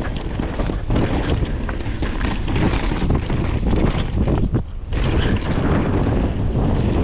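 Mountain bike riding down a rough downhill trail: wind buffeting the microphone over a constant clatter of tyres and frame knocking on the bumps, with a brief lull about four and a half seconds in.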